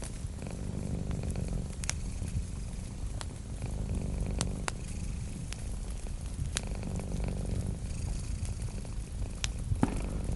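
Domestic cat purring steadily in a close, low rumble, with sharp pops and crackles from a wood fire every second or two.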